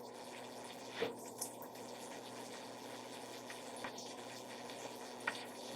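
Chicken browning in hot oil in a pot, giving a faint, steady sizzle, with a few light ticks.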